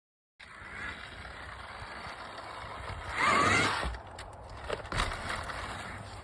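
KTM Freeride E-XC electric dirt bike being ridden: a steady mechanical rush with a rising electric motor whine about three seconds in as it accelerates, and a couple of sharp knocks from the chassis over the trail near the end.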